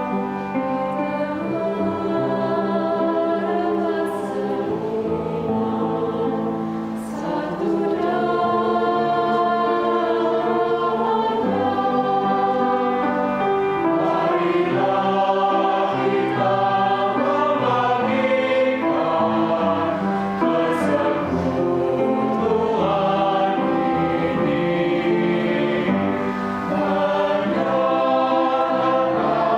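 Adult choir singing in several-part harmony, holding sustained chords that change every second or two.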